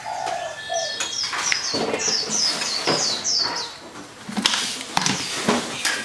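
A small bird chirping over and over in quick, high, falling notes, about three a second, that stop about halfway through. A few sharp knocks sound throughout.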